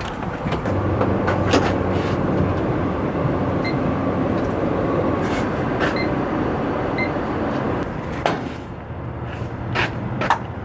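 Semi-truck's engine running steadily, with a few clicks and knocks over it; the engine sound drops away about eight seconds in.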